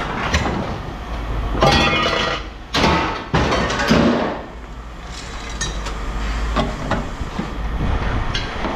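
Pieces of aluminum extrusion scrap clanging and clattering as they are tossed onto a pile, with a few loud metallic crashes that ring on in the first half and lighter clinks after, over a low steady rumble.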